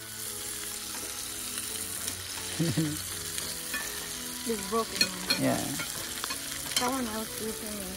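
Sliced meat and vegetables sizzling steadily on an electric non-stick grill pan, with a few sharp clicks of metal tongs as the food is turned. Faint voices in the background.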